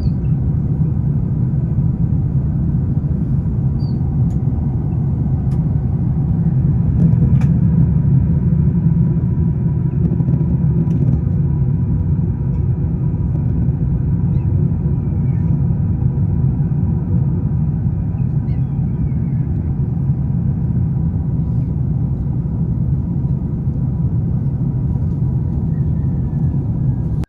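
Steady loud low rumble that cuts off suddenly at the end, with a few faint high chirps over it.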